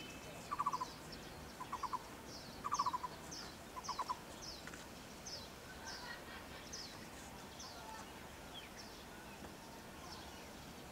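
Birds calling outdoors. There are four short bursts of rapid pulsed notes in the first four seconds, and a run of short, high, falling chirps, about two or three a second, that fades out after about seven seconds.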